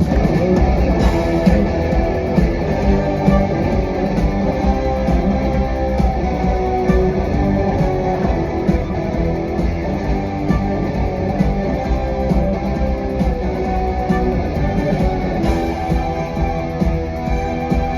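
Live rock music with guitar to the fore over a full band, playing continuously at a steady loudness.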